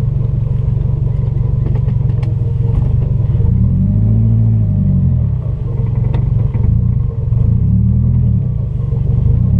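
Compound-turbo Subaru flat-four engine heard from inside the cabin while driving, a steady low rumble whose pitch rises and falls twice, about four and eight seconds in, as the car speeds up and eases off.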